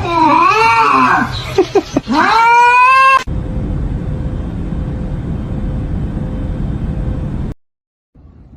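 A cat yowling loudly in long, wavering calls that bend up and down in pitch for about three seconds. Then a steady rushing noise follows and cuts off abruptly.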